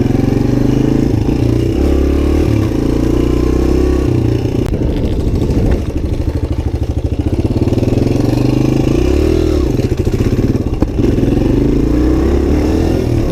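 Suzuki DR-Z125's small four-stroke single-cylinder engine being ridden hard, its pitch climbing under throttle and dropping off several times. There is a brief rise-and-fall of revs about three-quarters of the way through and a short knock soon after.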